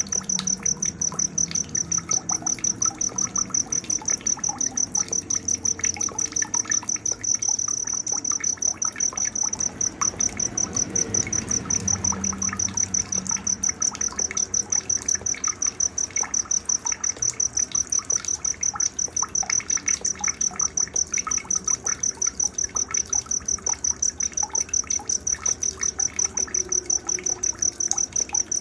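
Night nature ambience: a cricket chirping in a high, even pulse about four times a second, with scattered short bird-like chirps and a faint trickle of water beneath.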